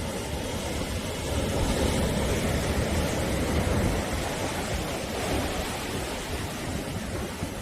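Sea surf washing steadily onto the shore, a continuous rushing with a gentle swell a couple of seconds in.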